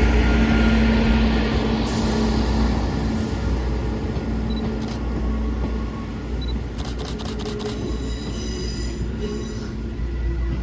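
Diesel train running past at a level crossing: a steady low rumble of engine and wheels with a humming tone, easing off slightly, and a quick run of clicks about seven seconds in.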